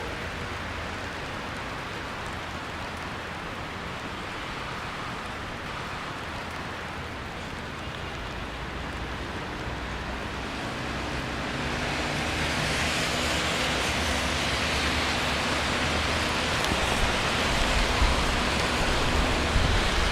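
Rainy city street ambience: a steady wash of rain and traffic noise that grows louder and brighter about halfway through, with a low hum joining it.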